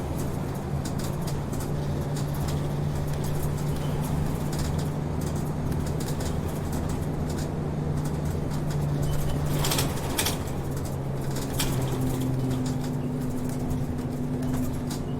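City route bus's diesel engine running while the bus drives, heard from inside the cabin, with frequent small rattles and clicks from the interior. The engine note changes about two-thirds of the way through.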